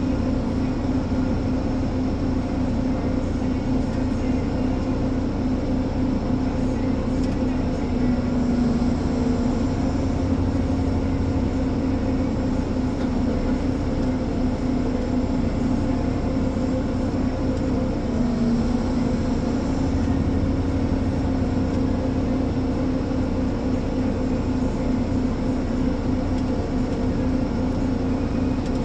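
Ponsse Elephant forwarder's diesel engine running steadily under load, its pitch sagging briefly twice, a little after 8 seconds and again near 18 seconds.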